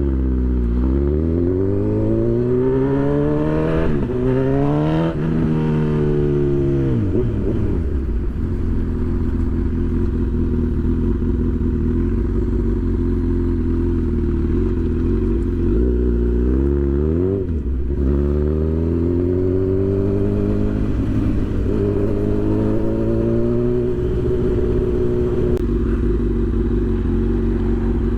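Honda CB1000 inline-four motorcycle engine pulling hard through the gears, its pitch rising and dropping back at each shift, then holding a steady cruise. It drops off and revs up again about two-thirds of the way through.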